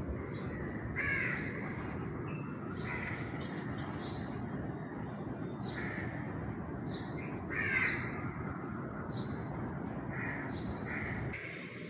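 Birds calling: about a dozen short calls, loudest about a second in and again near eight seconds, over a steady low background noise.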